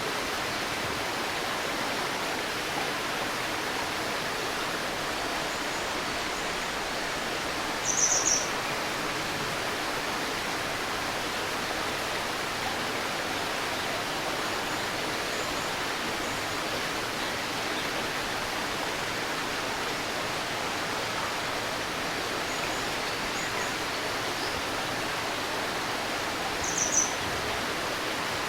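A shallow stream babbling steadily. A bird gives a short high call about eight seconds in and again near the end, with a few fainter chirps between.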